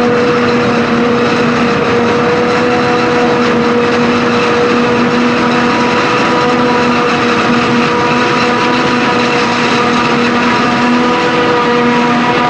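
Claas Jaguar forage harvester running steadily at working speed, chopping maize, with a constant mechanical whine over the engine.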